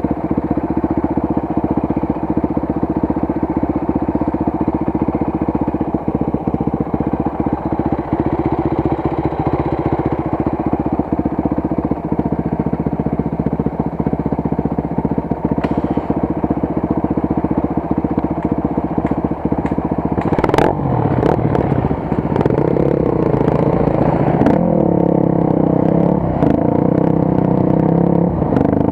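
Off-road motorcycle engine running steadily at low revs with a rattly clatter. About twenty seconds in there is a sharp knock, after which the engine runs at higher revs, its pitch rising and falling.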